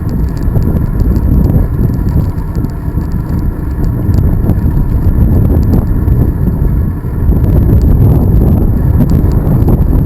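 Wind buffeting the microphone of a camera riding along on a moving bicycle: a loud, steady low rumble.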